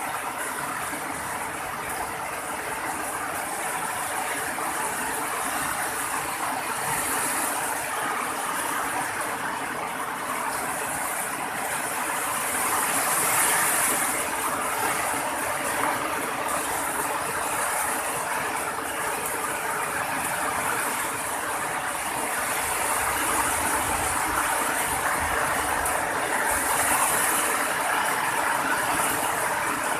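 Steady heavy rain falling, with slightly louder spells about halfway through and near the end.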